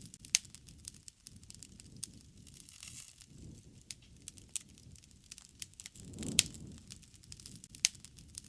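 Wood fire crackling: irregular sharp pops and snaps over a soft, low rumble of burning that swells briefly about six seconds in.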